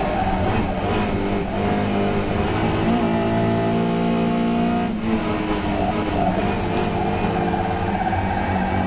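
Historic touring car's engine running hard in a race, revs held steady for a couple of seconds, then dropping sharply about five seconds in before pulling up again.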